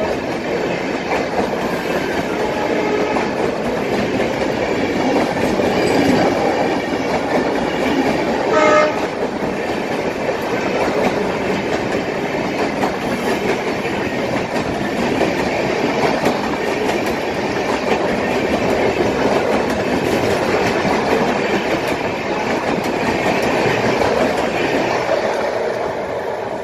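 Passenger coaches of the Rajdhani Express rolling past at close range: a steady rumble of wheels on rail joints with clickety-clack. A brief high tone sounds about nine seconds in, and the noise fades near the end as the last coach pulls away.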